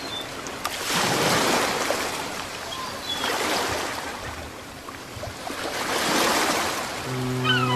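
Sea surf, waves breaking and washing in, swelling and fading every few seconds, with a few faint bird chirps. Near the end a steady low hum starts up.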